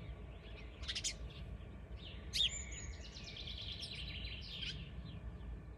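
Small songbirds chirping: a few sharp high chirps, then a louder whistled note about two and a half seconds in, running into a rapid trill. Under it there is a steady low rumble of outdoor background noise.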